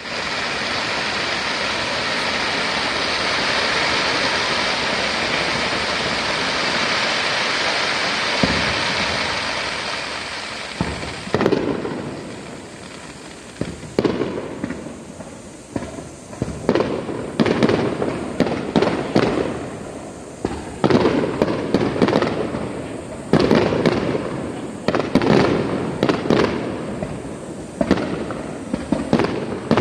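Fireworks display: about ten seconds of dense, continuous crackling, then a run of sharp bangs from shells bursting, each trailing off in a rumble, coming in quick succession toward the end.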